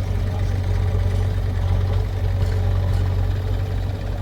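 Heavy diesel engine running steadily with an even, unchanging pitch.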